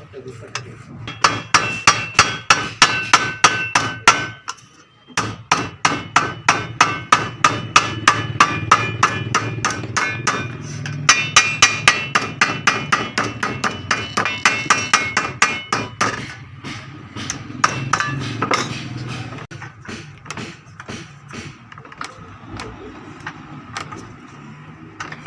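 A hammer beating a strip of 26-gauge sheet metal to bend and fold it, in fast runs of about four or five ringing metallic blows a second, with a short break about four seconds in. After about 16 seconds the blows become slower and fainter.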